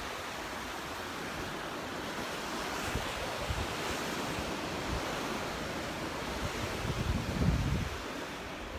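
Gulf of Mexico surf washing onto the beach in a steady rush, swelling and easing. Wind buffets the microphone with low gusts, strongest about three-quarters of the way through.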